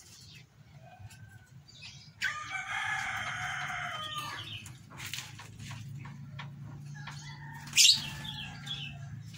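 Bird calls: a drawn-out call of about two seconds starting about two seconds in, then a fainter, longer call, with a brief sharp high sound near the end.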